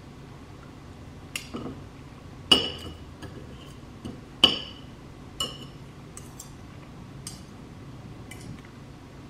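Dishes and cutlery clinking: a handful of sharp clinks with a short ring, the two loudest about two and a half and four and a half seconds in, with lighter taps between.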